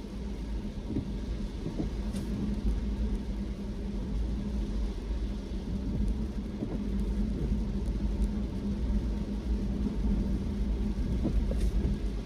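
Car driving along a road: a steady low rumble of engine and tyre noise with a constant low hum.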